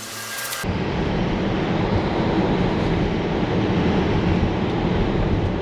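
Steady rumble of road and wind noise from a moving car, starting abruptly about half a second in when the music cuts off.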